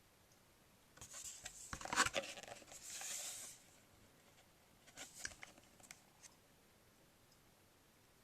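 A page of a picture book being turned: a paper rustle and swish lasting a couple of seconds starting about a second in, then a few light clicks from handling the book around five seconds in.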